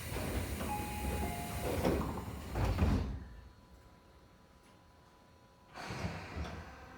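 Train passenger doors sliding shut, with a thud as they close about three seconds in that cuts the outside noise off sharply. A few seconds later the noise picks up again.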